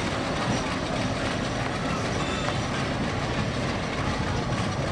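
Broad-gauge passenger train with LHB coaches running past, a steady rumble, with a crowd's voices mixed in.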